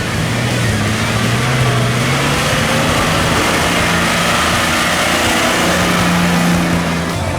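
Off-road racing truck's engine revving under load, its pitch rising and falling.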